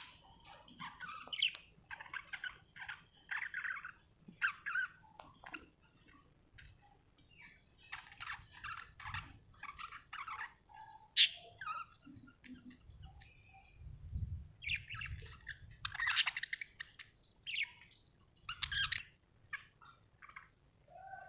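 Pet budgerigars chirping and chattering in short, irregular bursts, with now and then a sharper, louder call.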